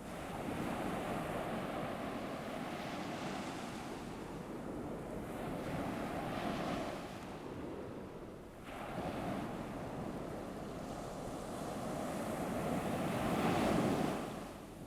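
Ocean surf washing onto a shore in slow surges: each wave swells and ebbs, with a dip about eight seconds in and the loudest wave building near the end before it falls away.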